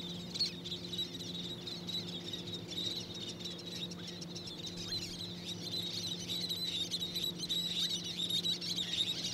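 Many short, high bird chirps and peeps overlapping, growing busier near the end, over a steady low hum.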